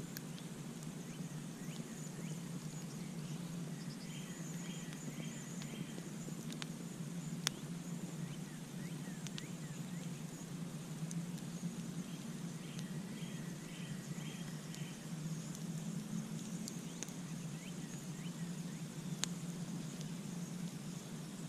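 Campfire crackling with scattered sharp pops, two of them loud, about seven and nineteen seconds in, over a steady low rumble. A faint high insect-like buzz runs underneath, and twice a short rapid run of chirps is heard, near four and thirteen seconds in.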